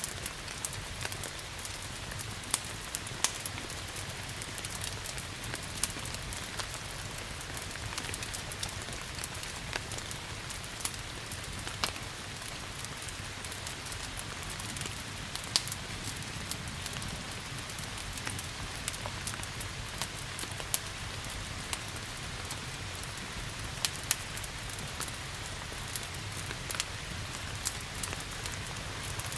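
Steady rain hiss mixed with a wood fire in a fireplace, its irregular sharp crackles and pops scattered throughout.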